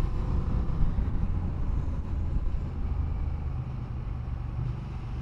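Motorcycle engine running at road speed with wind rush, easing off slightly toward the end.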